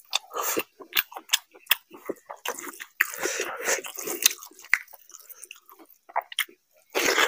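Close-miked eating of rice and mutton curry by hand: wet chewing and lip-smacking clicks, with a longer stretch of squishing about three seconds in as a handful of curry-soaked rice is gathered and pressed on the plate.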